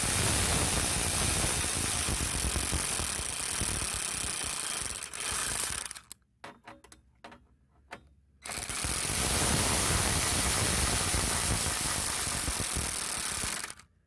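A power tool running bolts into a running-board mounting bracket: two long runs of about five to six seconds each, with a few short trigger bursts in the pause between them.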